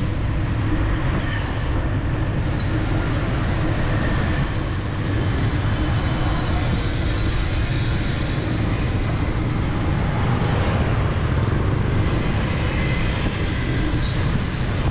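Steady city street traffic heard from a moving bicycle: engines and tyre noise of passing vehicles, with a constant low rumble of wind on the microphone.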